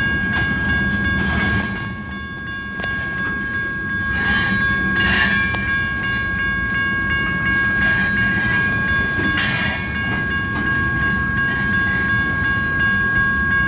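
Freight train of tank cars rolling past on the rails: a steady heavy rumble of wheels with occasional clanks, under a steady high ringing tone.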